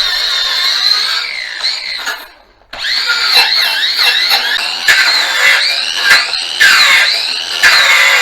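A cordless power tool spinning a wire wheel brush against a steel motorcycle frame to strip it back to bare metal: a high whine that sags and recovers in pitch again and again as the brush is pressed into the metal. It stops briefly a little over two seconds in, then starts up again.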